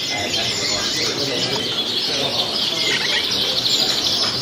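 A dense chorus of many caged show birds chirping and calling at once, with short overlapping tweets and quick rising and falling notes.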